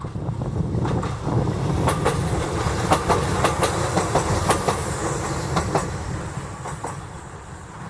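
A train passing close by, its wheels clacking over rail joints in quick pairs of clicks under a steady rumble that builds and then fades as it goes by.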